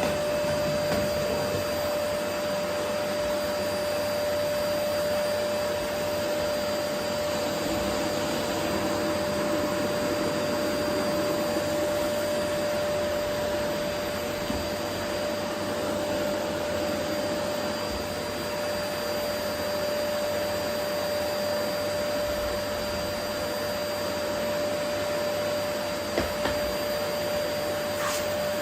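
Vacuum cleaner running steadily with a constant whine over its airflow noise as it picks up rose petals from a wooden floor. A couple of faint clicks come near the end.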